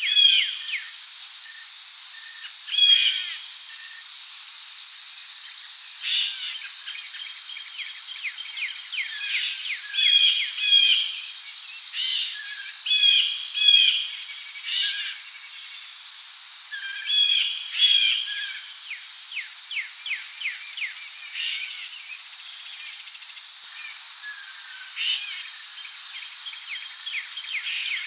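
Tropical forest ambience: a steady, high-pitched chorus of crickets and other insects, with short bird calls, often in quick pairs, breaking in every few seconds.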